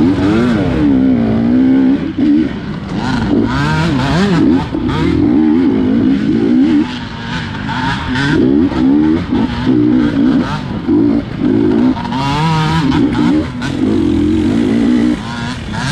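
A GasGas 250 dirt bike's engine revving hard and falling back over and over, the throttle snapped open and shut in quick succession with short drops between bursts, as in tight off-road racing.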